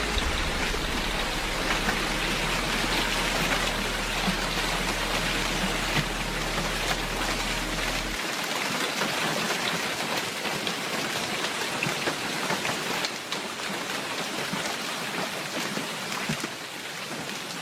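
Heavy rain pouring down, a dense hiss full of fine pattering drops. A low steady hum sits beneath it and cuts off suddenly about eight seconds in.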